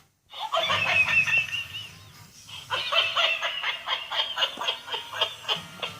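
High-pitched laughter in rapid, pulsed bursts, in two long runs with a short break about two seconds in.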